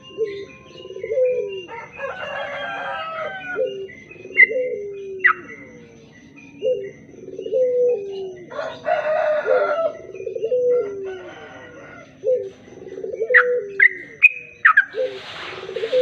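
Bird lure recording: a low falling cooing note repeated about once a second, overlaid by short chirps and two bursts of busy higher chattering of the kind a trucuk (yellow-vented bulbul) makes, played to draw or stir the bird into singing.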